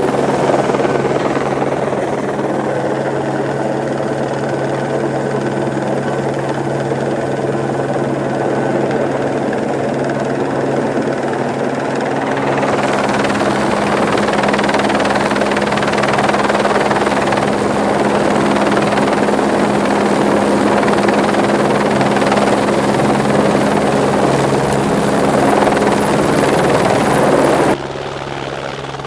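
Helicopter running close to the microphone: a steady rotor and engine drone with a low constant hum and a noisy wash over it. The sound changes abruptly about twelve seconds in, getting brighter, and drops in level shortly before the end.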